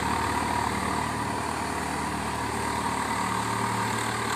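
Swaraj 744 FE tractor's three-cylinder diesel engine running steadily while driving a rotavator through puddled mud.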